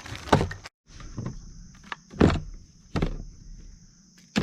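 Several separate knocks and thumps, about a second apart, as a hard plastic storage case and its foam inserts are handled and repacked.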